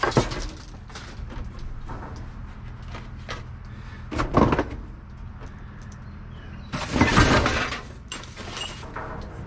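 Discarded household goods in a dumpster clattering as they are shifted and dropped, in three bursts, the last one the longest; the clinks suggest glass among them.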